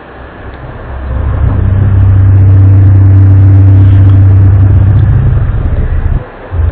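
A low, steady droning tone swells up over the first two seconds, holds loud, then fades and breaks off near the end. It is one of the unexplained 'strange sounds' recordings reported from around the world, whose origin is unknown and may be a hoax.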